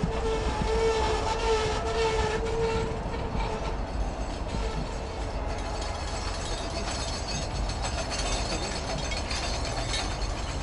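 Passenger train coaches rolling past at close range: a steady rumble of wheels on the rails with rapid clicking. A steady high tone is held through the first three seconds or so.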